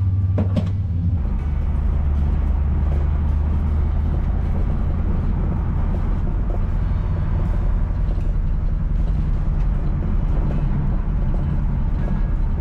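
Heavy vehicle engine running steadily, its note dropping a step about a second in and then holding.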